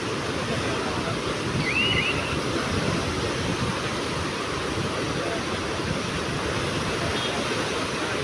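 Sea surf washing steadily onto the shore, a continuous rushing noise. A brief high chirp sounds about two seconds in.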